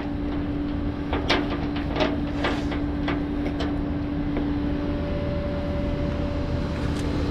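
Truck engine idling with a steady whine, with scattered light clicks and knocks.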